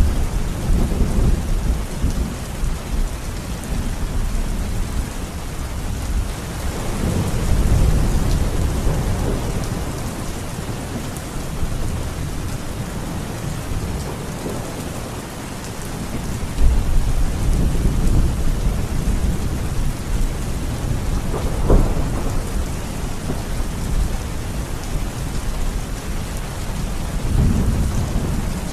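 Steady heavy rain falling in a thunderstorm, with deep rolls of thunder swelling and fading several times. A sharper thunder crack comes about three-quarters of the way through.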